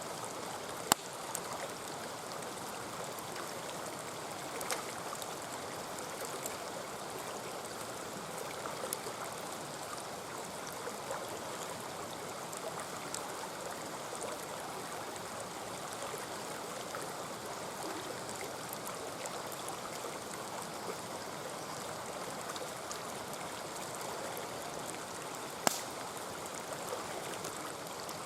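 Mountain stream running steadily, with a few sharp pops from a wood campfire, the loudest about a second in and another near the end.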